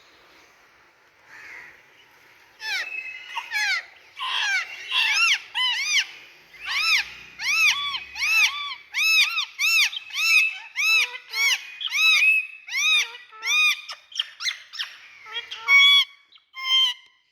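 Indian ringneck parakeet calling: a long run of repeated arching squawks, about two a second, starting a couple of seconds in after a quiet opening.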